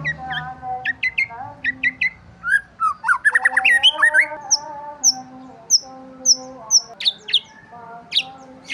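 Several songbirds chirping and twittering, with quick overlapping chirps, short trills and a run of repeated downward-sliding notes in the middle.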